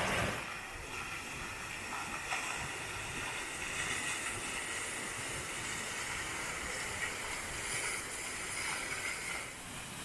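Steady hiss of rushing mountain water from waterfalls and their stream.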